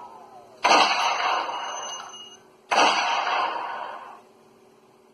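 Two sudden loud bursts of noise about two seconds apart, each cutting in sharply and fading away over about a second and a half.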